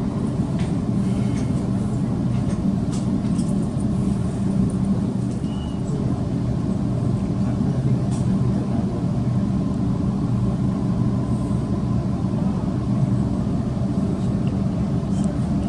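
Interior noise of an electric suburban train running through an underground station, heard from inside the carriage: a steady rumble of wheels on rail with a constant low motor hum and a few faint clicks.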